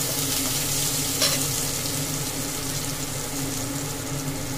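Chopped onions and green chillies sizzling in hot oil in a nonstick pan while being stirred with a perforated steel ladle. There is a single light knock about a second in.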